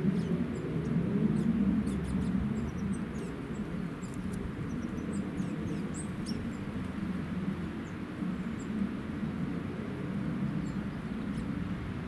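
Small birds calling in short, high chirps and squeaks, most of them in the first half, over a steady low rumble. Tits are at the feeders.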